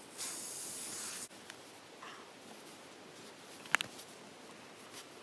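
Short hiss of air escaping from a punctured motorcycle tyre as a plug is worked into the hole, lasting about a second and cutting off sharply. A single sharp click follows a couple of seconds later.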